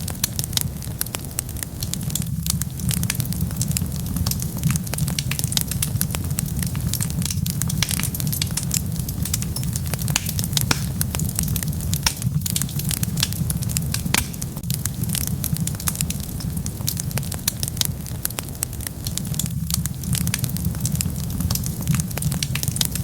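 Wood fire crackling: dense, irregular small pops and snaps over a steady low rumble of burning.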